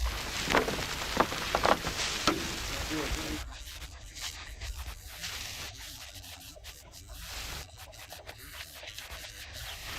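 A plastering tool scraping and rubbing straw-fibred render across a wall, louder over the first few seconds and fainter after that.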